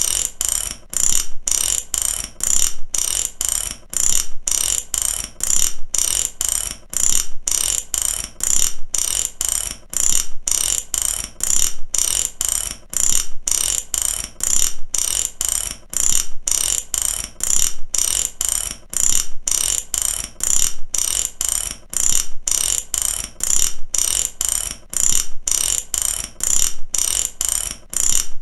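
Mechanical ratchet clicking rapidly in repeated short runs, a steady metallic rattle of pawl on teeth.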